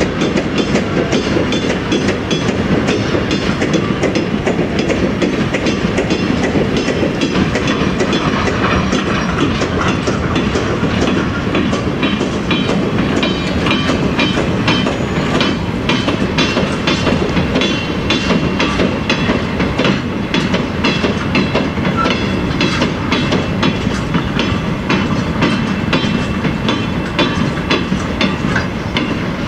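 Chichibu Railway freight train of steel hopper wagons rolling past, wheels clattering steadily over the rail joints.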